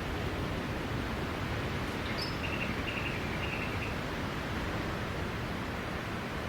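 Steady wash of sea surf on a beach, with a bird chirping briefly a couple of seconds in.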